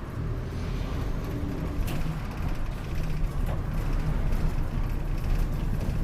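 Route bus running, its engine and road noise heard from inside the passenger cabin as a steady low rumble, with a single sharp click about two seconds in.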